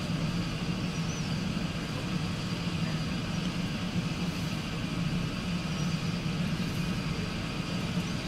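An engine running steadily, a constant low hum with even noise over it that neither rises nor falls.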